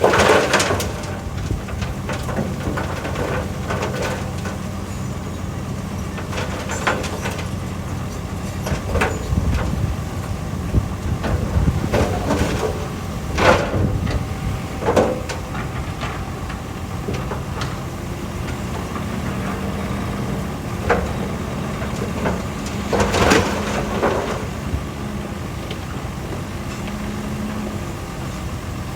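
Crawler bulldozer's diesel engine running steadily under load, with a handful of sharp clanks and scrapes from metal and rock at irregular moments.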